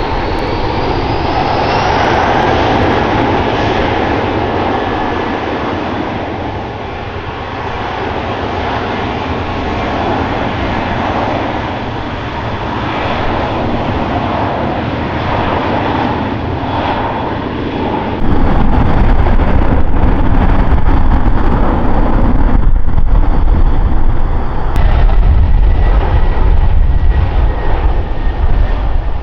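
Passenger airliner engines running loud, with a whine rising in pitch over the first few seconds. About 18 seconds in the sound jumps suddenly to a much louder, deeper rumble that lasts to the end.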